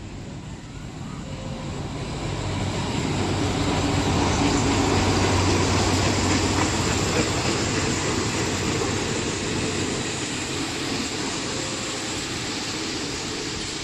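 Diesel-hauled passenger train passing close along the platform: the locomotive's low engine hum and the wheel noise grow louder over the first few seconds as it goes by, then the carriages roll past with a steady rumble of wheels on the rails.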